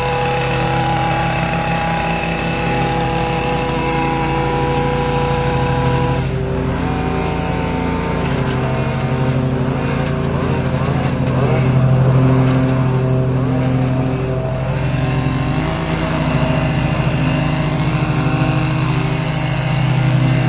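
Stihl KM 94 R two-stroke engine driving a hedge trimmer attachment, running steadily at high speed. About six seconds in, the engine note shifts and turns rougher for several seconds as the trimmer works through the foliage.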